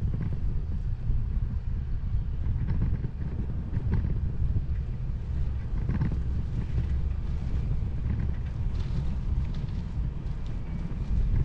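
Wind buffeting the microphone of a 360 camera on a moving bicycle: a steady low rumble, with a few faint ticks over it.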